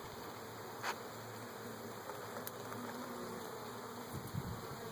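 Honeybee colony buzzing in an opened hive, a steady hum. There is a faint click about a second in and a few soft knocks near the end.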